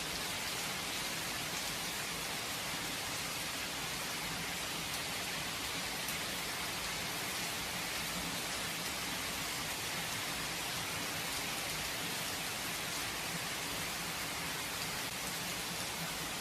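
Steady rain falling without thunder: an even hiss of rain with faint individual drop ticks.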